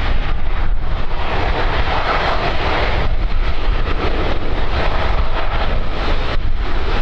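Aircraft engines passing as a loud, steady rush, strongest a couple of seconds in, with wind buffeting the microphone.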